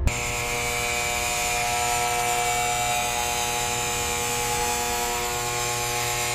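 A small motor running with a steady buzz, its pitch unchanging.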